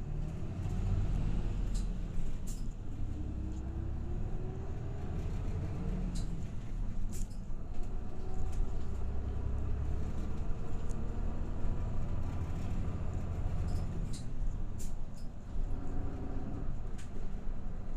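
Inside a Hinomaru Jidosha route bus on the move: the diesel engine runs with a low rumble, and a whine rises slowly in pitch as the bus gathers speed, with scattered clicks and rattles from the cabin.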